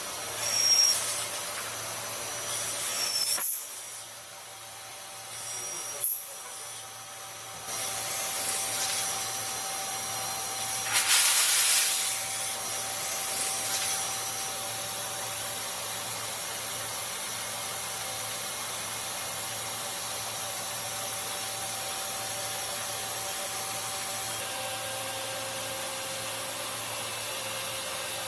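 CNC turn-mill machine running, a steady whine and hum under a hiss. Short sharp peaks come about a second in, near three and a half seconds and near six seconds. A louder burst of hiss follows about eleven seconds in.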